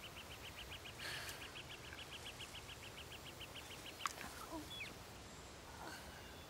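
Faint bird calls: a rapid trill of short, even high notes, about six a second, for roughly three seconds, then a few separate short chirps.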